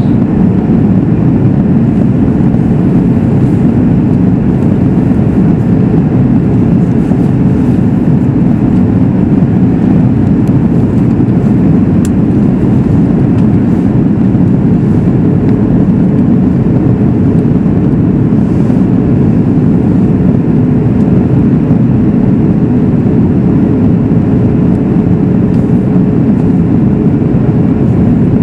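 Steady cabin noise inside a Boeing 737 MAX 8 in flight: an even rush of airflow and the drone of its CFM LEAP-1B engines, with a faint steady hum.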